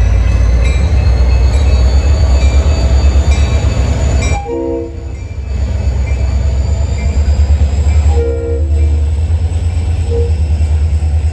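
Diesel freight train locomotive running with a heavy, steady low rumble. Its air horn sounds twice: a blast of about a second some four and a half seconds in, and a shorter one about eight seconds in.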